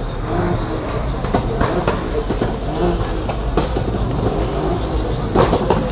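Car engines running at a car meet: a steady low rumble, with faint voices of people talking in the background.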